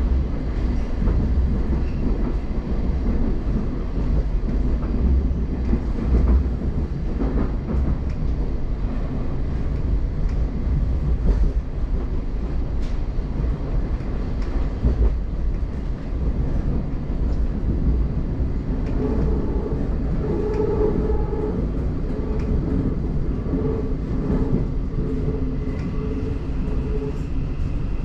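Class 717 electric multiple unit heard from inside the carriage running through a tunnel: a steady low rumble of wheels on rail. In the last third a wavering electrical whine comes and goes as the train slows into a station.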